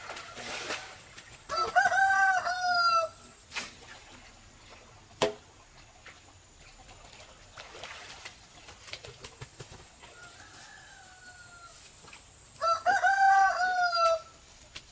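A rooster crowing twice, about ten seconds apart, each crow lasting about a second and a half, with a fainter crow in between. A couple of short, sharp knocks fall between the first and second crow.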